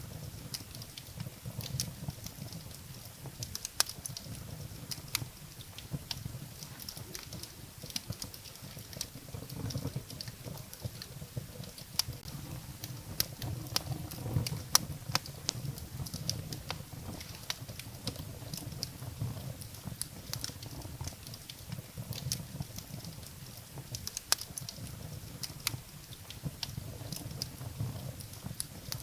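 Wood fire burning in a fireplace: a low steady rumble of flames with irregular sharp crackles and pops from the burning firewood.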